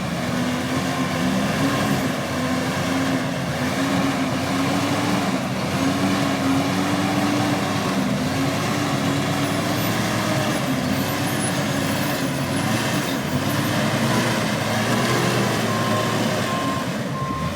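Truck engine running steadily, its pitch wavering a little. Near the end a reversing alarm beeps.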